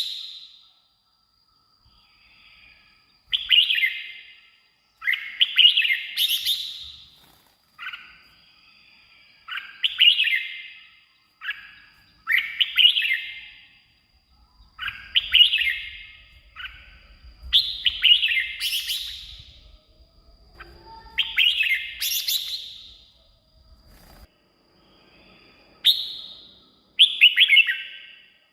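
Red-whiskered bulbul singing: short, loud whistled phrases of about a second each, repeated every second or two with brief pauses between them.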